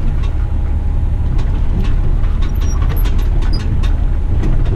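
Western Star dump truck's diesel engine running with a steady heavy low rumble as it rolls through a tyre wash bay. Irregular clicks and splashes sound over it throughout.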